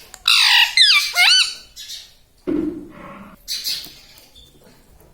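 Indian ringneck parrot squawking: loud, shrill calls that sweep sharply up and down in pitch in the first second and a half, then softer, lower calls a second or so later.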